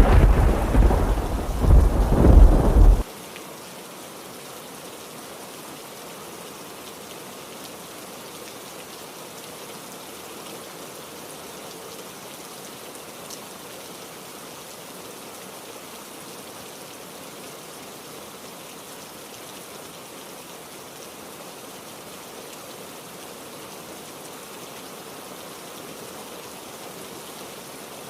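A loud thunderclap with two swells, cutting off abruptly about three seconds in, then heavy rain falling as a steady hiss.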